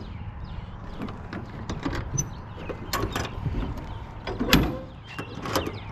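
Metal clicks, rattles and clunks of an enclosed car trailer's door latch and door being worked open, with a louder clunk about four and a half seconds in.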